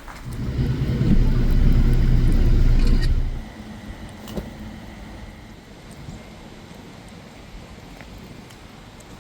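A muscle car's engine, a loud low rumble that builds up, holds for about two seconds and then drops away about three seconds in, as the car drives past close by.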